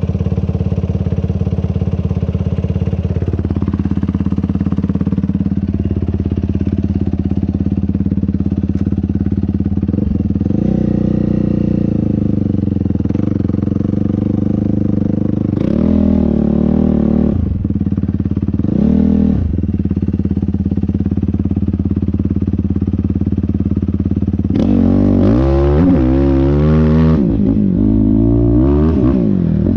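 ATV engine being ridden hard, running steadily at first, then revving up and down. Quick rises and drops in revs come from about halfway through, and fast repeated rev swings near the end.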